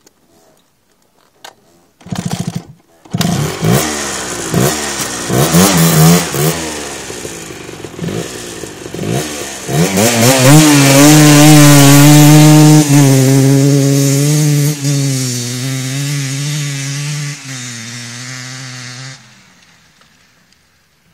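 1987 Kawasaki KMX 125's single-cylinder two-stroke engine on its original exhaust, starting about two seconds in and revved in several short rising-and-falling blips. It is then held at steady high revs, settles a little lower, and cuts off suddenly near the end.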